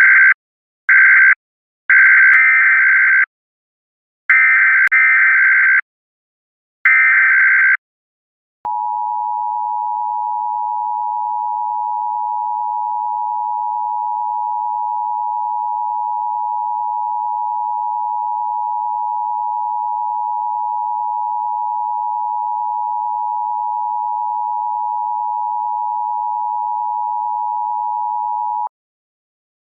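Electronic tones: five harsh beeps of uneven length in the first eight seconds, then a single steady pure tone, lower in pitch, held for about twenty seconds before cutting off.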